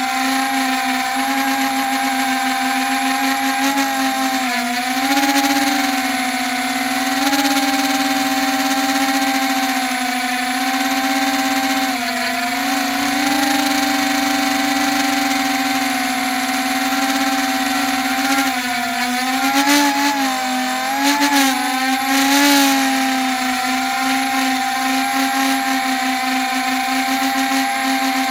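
HBx quadcopter's small electric motors and propellers whining in flight, the pitch wavering up and down with constant throttle corrections as it flies roughly on a bad motor and a loose arm. A few sharp clicks come about twenty seconds in.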